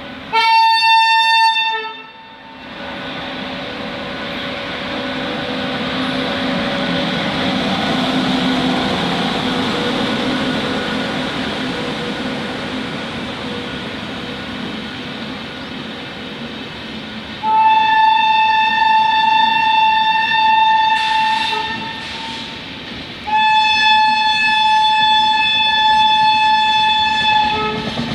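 Indian Railways express train sounding its horn: one short blast, then the steady rumble of the running train swelling and fading, then two long blasts of about four seconds each near the end.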